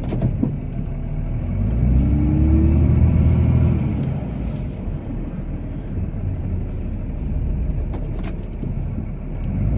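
Cummins inline-six turbodiesel of a Ram pickup running while plowing snow, heard from inside the cab. It revs up about two seconds in, rising in pitch and getting louder, then eases back to a steady run.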